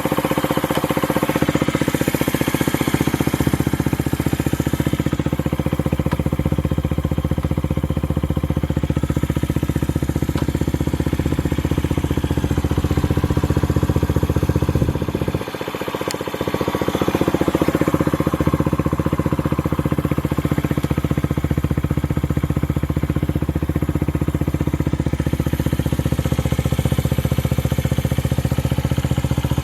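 Honda Ape 50 fuel-injected single-cylinder four-stroke idling steadily through an aftermarket BEAMS muffler. About halfway through, the sound dips briefly, then the steady idle comes back.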